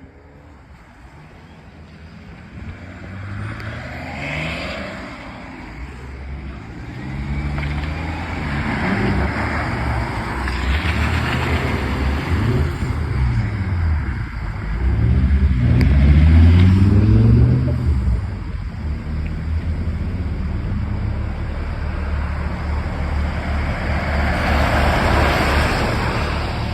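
Cars driving out past one after another, engines revving up and dropping back repeatedly, the loudest pass about sixteen seconds in.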